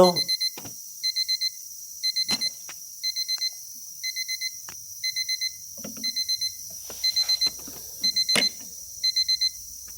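Digital alarm clock beeping in bursts of four quick high beeps, about one burst a second; the clock is still sounding its alarm with its circuit board exposed to humidity. A couple of sharp knocks come through, the loudest a little past eight seconds in.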